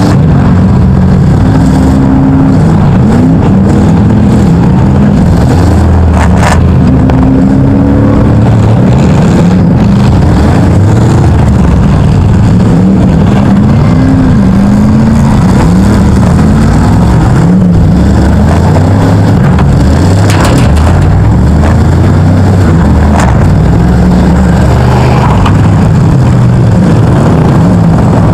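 V8 engines of several demolition derby cars, among them the 1975 Chrysler Newport that carries the microphone, revving hard at once, their pitches rising and falling over each other. It is very loud and distorted, with a couple of sharp knocks of metal hitting metal.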